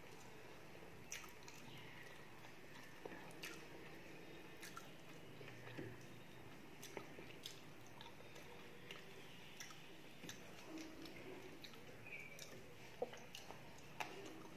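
Faint mouth sounds of someone eating rice and fish by hand: chewing and lip smacks with scattered small wet clicks, and fingers squishing rice against the plate.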